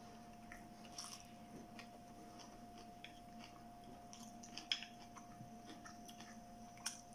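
Faint chewing of food, with a few soft clicks of wooden chopsticks against a ceramic rice bowl, over a faint steady hum.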